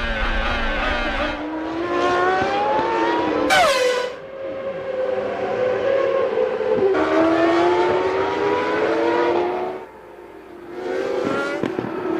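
Formula One race car engines at high revs, their pitch climbing again and again as the cars accelerate and shift up. A little over three and a half seconds in, one car passes close, with a sudden drop in pitch.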